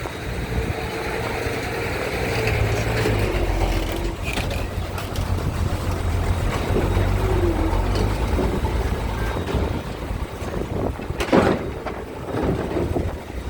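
Low, steady drone of a ferry's engines running, with a sharp knock about eleven seconds in.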